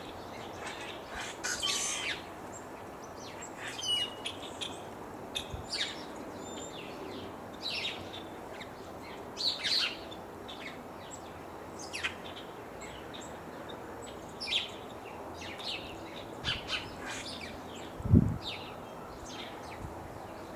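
Several birds chirping and calling, short separate notes scattered over a faint steady background hiss. A brief low thump sounds near the end.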